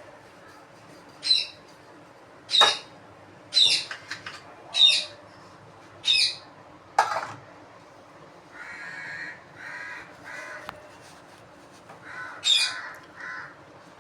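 A bird calling: a string of short, loud, harsh calls, about six in the first seven seconds, then a few softer, rougher calls, and two more loud calls near the end.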